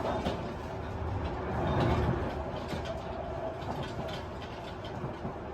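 Running noise inside a Tobu 50090 series electric train car: a steady rumble of wheels on rail with scattered light clicks and rattles, swelling briefly about two seconds in.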